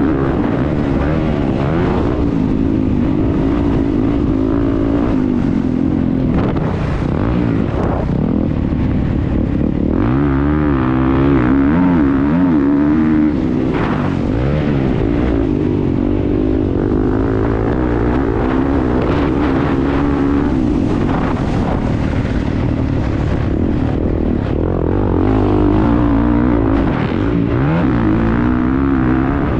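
Motocross motorcycle engine racing, its revs rising and falling again and again through the gears, heard close up from a camera mounted on the bike.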